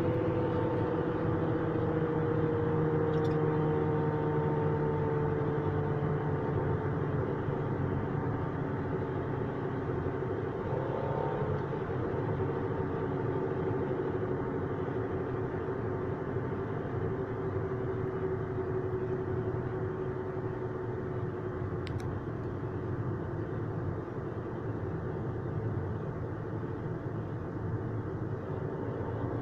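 Car engine running steadily, its hum slowly dropping in pitch over the first half and then holding level.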